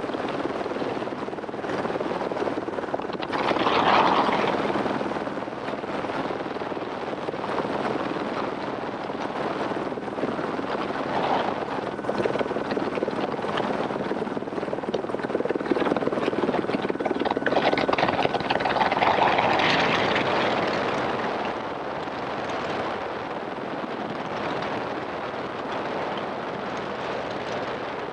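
Helicopter in flight, its rotor and engine noise running continuously, with louder swells about four seconds in and again around twenty seconds.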